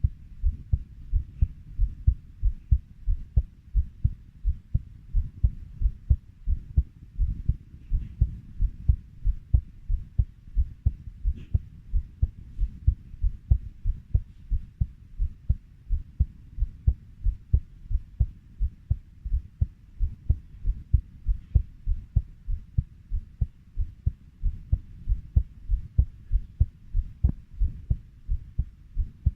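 Human heartbeat at a steady 90 beats per minute: a regular train of low, dull thumps.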